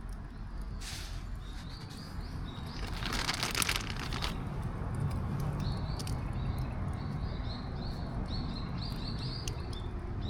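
A small bird calling in quick series of short, high chirps, a few about two seconds in and a longer run through the second half, over a steady low rumble. A brief burst of noise about three seconds in is the loudest moment.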